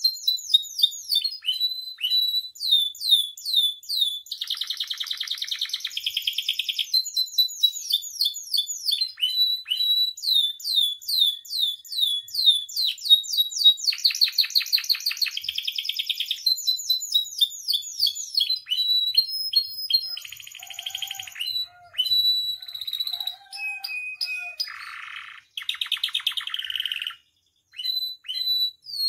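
Domestic canary singing a long unbroken song: runs of fast repeated falling notes, buzzy rolls, and short high whistles.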